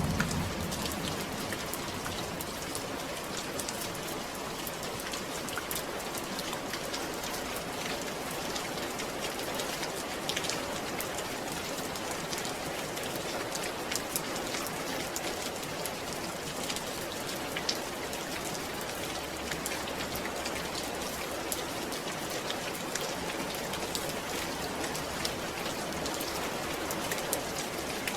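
Steady rain falling, with many separate drop hits standing out against the even hiss.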